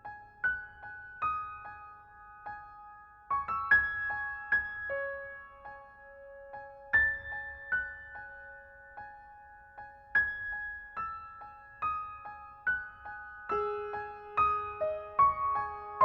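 Soft background piano music, single notes struck and left to ring, with a high note repeated throughout and fuller lower notes coming in near the end.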